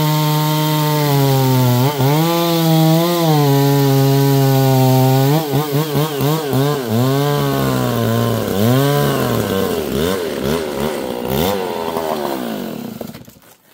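Chainsaw running at high revs, its pitch dipping now and then as it takes load while cutting wood. About halfway through, the pitch starts rising and falling quickly over and over, then the engine winds down and stops near the end.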